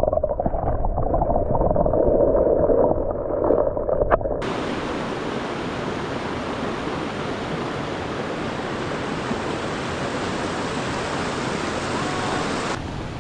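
Running river water. For about the first four seconds it is muffled and dull, with the highs cut off. It then changes abruptly to a steady, even rush of flowing water.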